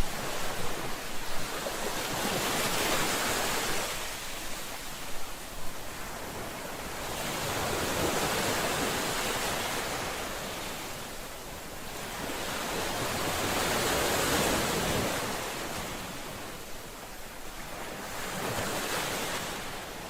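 Ocean waves breaking and washing up on a shore, in slow surges that build and fall back about every five to six seconds, four times.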